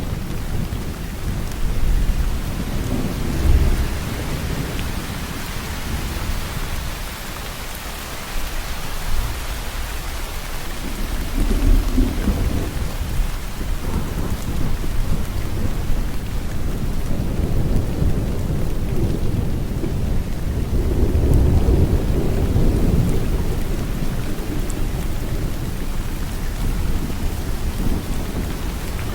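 Steady heavy rainfall with rolling thunder: low rumbles swell and fade several times, near the start, about twelve seconds in and again past the twenty-second mark.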